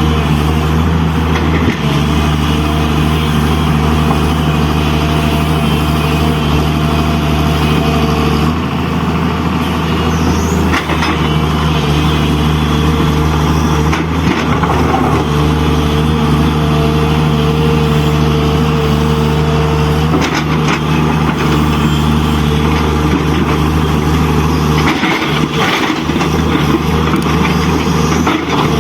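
A truck engine sound, like a diesel running steadily, from the model dump trucks and loaders at work, with slight shifts in pitch now and then.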